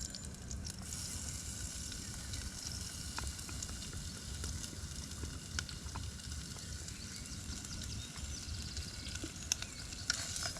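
Corned beef sizzling as it fries in a pan with onion and garlic, with a steady hiss and occasional light clicks. A low rumble runs underneath.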